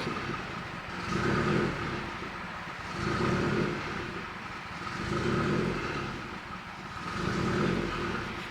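Turbocharged Subaru WRX flat-four running through a catless downpipe and Tomei catback exhaust, its idle rising and falling about every two seconds. This happens right after refuelling, and the owner takes it for the engine running rich from an evap fault.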